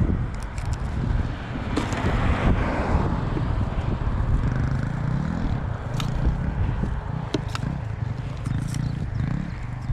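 Road traffic passing steadily, a continuous rumble of cars and tyres with one car swelling past about two seconds in, and a few short sharp clicks.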